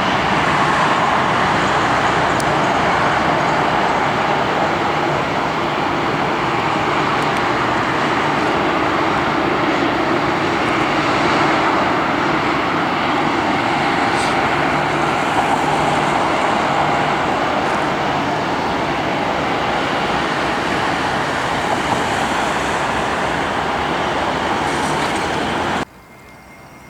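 Airliner engines running loud and steady: a broad rushing noise with a faint whine in it, cutting off suddenly near the end.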